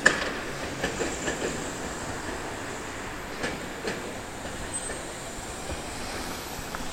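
Tobu 200 series electric train rolling slowly out of a siding, its wheels clacking over rail joints in irregular clicks, the loudest at the start and a cluster in the first second and a half, over a steady running rumble.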